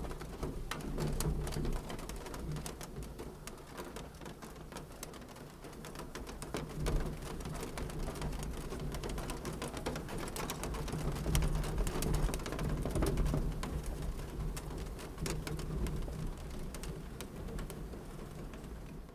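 Wood fire crackling and popping continuously over a low, steady rumble of flames.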